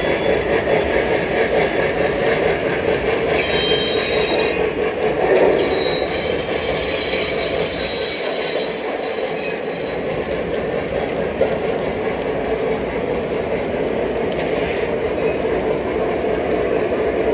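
Model train running on track: a steady rolling rumble with brief high-pitched wheel squeals a few seconds in.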